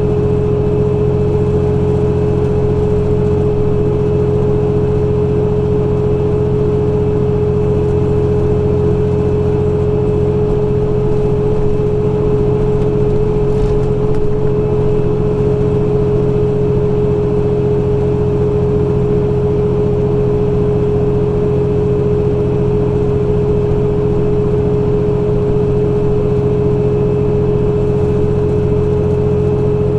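Semi-truck's diesel engine running steadily, a constant low drone with a steady whine over it.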